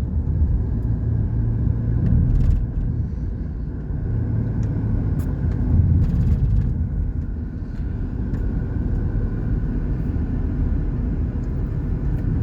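A car driving, with a steady low rumble of engine and road noise heard from inside the cabin and a few faint light clicks.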